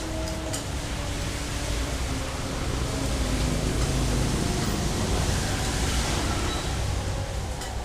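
Rushing noise of rain mixed with passing traffic. It swells to its loudest in the middle and eases near the end.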